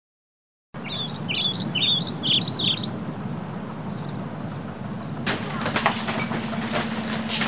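After a moment of silence, a small bird chirps in a quick run of short rising-and-falling notes for about two seconds over steady background noise. From about five seconds in, footsteps and knocks clatter as people walk in across the floor.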